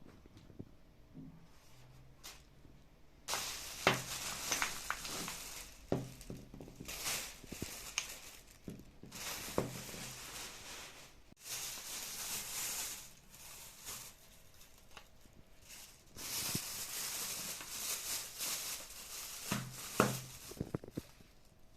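Packaging being handled and unwrapped: long stretches of rustling and crinkling, with sharp clicks and light knocks as items are handled and set down.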